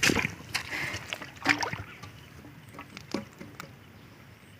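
Water splashing and sloshing in irregular strokes, loudest in the first two seconds and then fading to faint.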